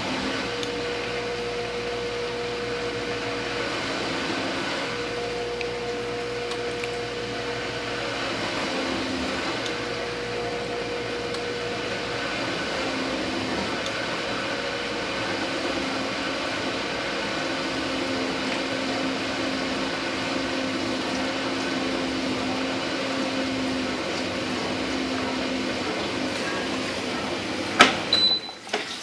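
Dishwasher's wash pump running with spraying water and a steady motor hum whose pitch shifts partway through. Near the end there is a sharp click and the running sound drops.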